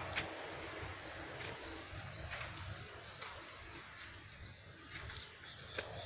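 Small birds chirping, short high notes repeated about three a second over a steady background hiss, with a sharp click near the start and another near the end.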